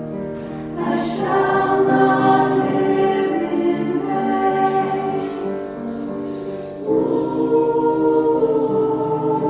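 A choir singing a slow, sustained piece in harmony, holding long chords, with a new phrase entering about a second in and again near the end.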